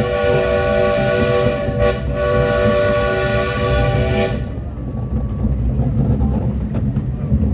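Train whistle blowing one long, steady blast that cuts off suddenly about four and a half seconds in, over the low rumble of the train running.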